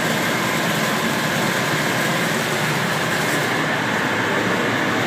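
Fire engine running steadily with its fire pump engaged, an even, unchanging mechanical noise.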